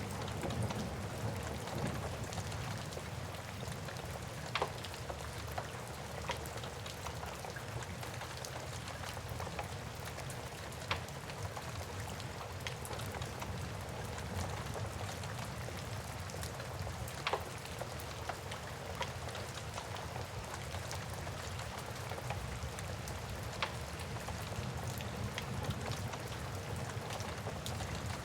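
Steady rain with a low rumble underneath, and a wood fire in a fireplace giving a sharp crackling pop every few seconds.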